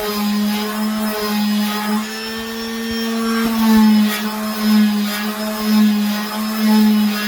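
Electric sander running on a wooden tabletop with 120-grit paper: a steady motor hum that swells and dips slightly as it is worked over the wood.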